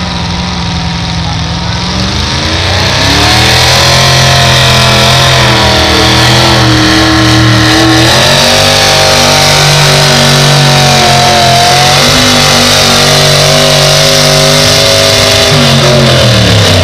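A pulling vehicle's engine revs up a couple of seconds in and is held at high revs under heavy load as it drags the weight sled. Its pitch wavers a little, then it drops off near the end as the throttle comes back.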